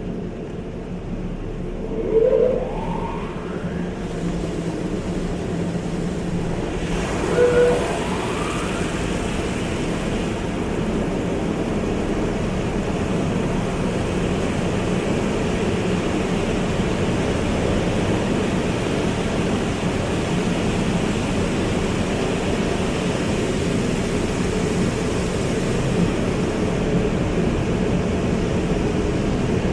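Car wash running: a steady rush of water spray over a constant machinery hum, with two brief rising whines, about two and seven seconds in.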